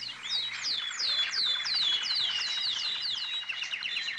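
Birdsong: a bird repeating quick, high, downward-sweeping whistled notes, about three a second, with other chirping behind.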